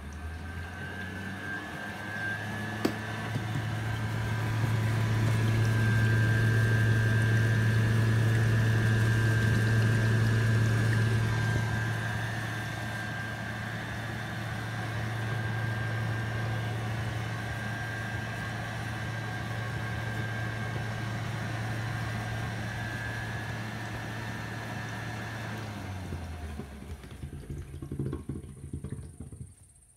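Water-filter vacuum cleaner (Room Seafort) motor running with a steady low hum and a high whine. It grows louder over the first few seconds, eases back a little about twelve seconds in, then winds down and stops near the end.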